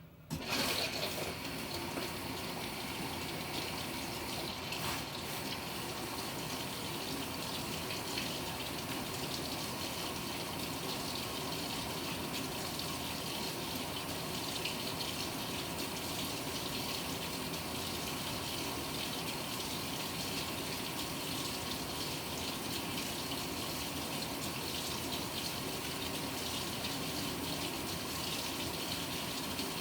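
Water pouring into the drum of a Panasonic NA-FA100H9 fully automatic washing machine as it fills. It starts suddenly about half a second in and runs on as a steady rush.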